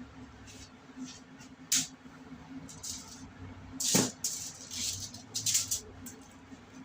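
Sharp knife cutting and scraping through a raw whole chicken as the meat is separated from the bones: irregular short scrapes and a sharp click about four seconds in, over a steady low hum.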